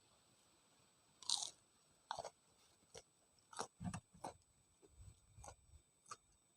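A person bites into battered fried tempeh (tempe mendoan) about a second in, then chews with a run of short wet mouth smacks and clicks.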